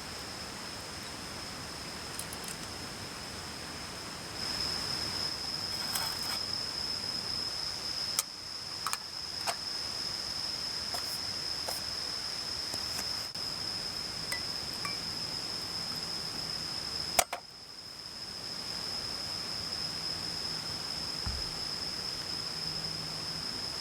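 An insect trilling on one steady high note over the rush of a stream, with a few light clinks from the sake things about a third of the way in and a sharper click a few seconds later.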